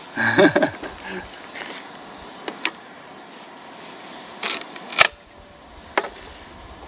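Firewood being broken and handled: a short clatter at the start, then a few separate sharp wooden cracks and knocks, the loudest about five seconds in.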